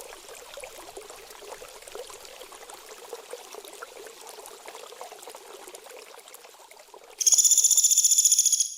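Running, trickling water for about seven seconds. Then a small songbird's loud, rapid, buzzy trill breaks in abruptly and fades out at the end.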